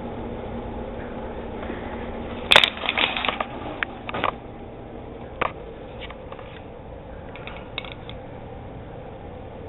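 A run of sharp crunching and cracking noises, loudest about two and a half seconds in and thinning out to a few scattered clicks later, over a steady low hum.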